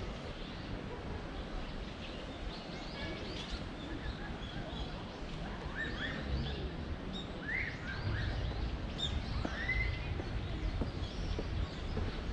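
Small birds chirping and calling, with a few short rising notes, over a steady low background rumble that grows louder about eight seconds in.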